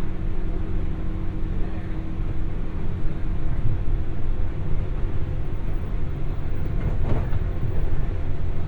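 Running noise heard from inside a JR 201 series electric motor car (Moha 201) under way: a steady low rumble of wheels and bogies on the rail with a faint steady tone over it. About seven seconds in there is one brief sharp knock.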